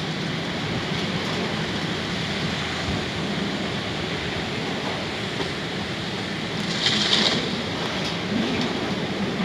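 Squall wind blowing hard, a steady rushing noise, with a brief louder hiss about seven seconds in.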